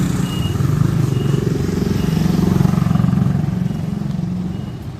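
A motor vehicle's engine running close by, growing louder to a peak midway and then fading as it passes.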